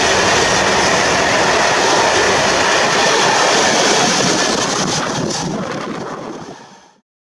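Freight train of open coal wagons rolling past, a steady rumble and clatter of wheels on rails. It fades as the last wagon goes by, about four seconds in, and the sound cuts off abruptly about seven seconds in.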